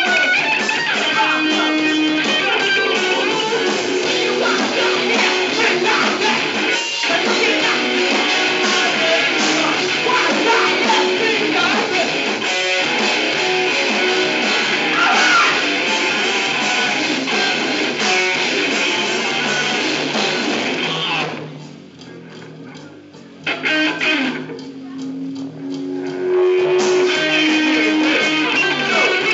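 Live band playing loud guitar-driven rock. About three-quarters through, the band drops out for a few seconds, leaving sparse notes and one short burst, then comes back in at full volume.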